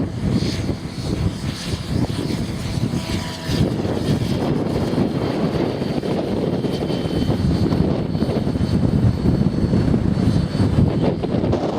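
Heavy wind buffeting the microphone over the thin whine of an Align T-Rex 600E Pro electric RC helicopter in flight.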